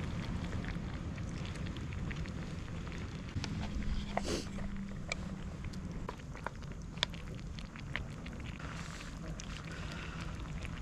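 Firewood fire crackling, with irregular sharp pops and snaps over a steady low rumble of wind on the microphone.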